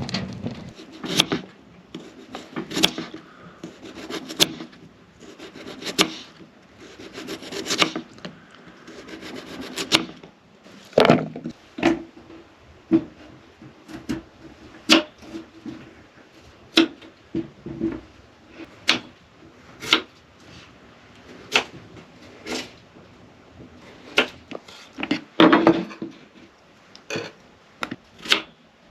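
Irregular sharp wooden knocks and clacks, with stretches of rubbing or scraping in the first ten seconds, as of wood being handled or worked by hand.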